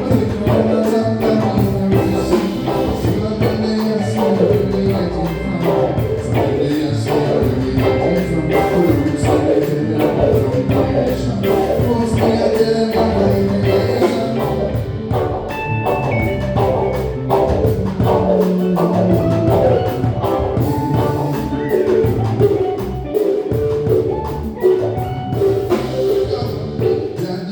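Live band playing a song with drum kit, bass, guitar and keys, and a voice singing at times.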